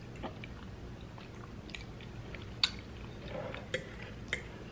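Quiet close-up chewing of a mouthful of spaghetti: soft wet mouth sounds with scattered sharp clicks, the loudest a little past halfway and two more near the end.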